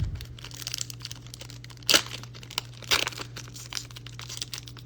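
Foil booster-pack wrapper crinkling and tearing as a trading-card pack is opened, in irregular crackly bursts, the sharpest about two seconds in and another about three seconds in, over a faint steady low hum.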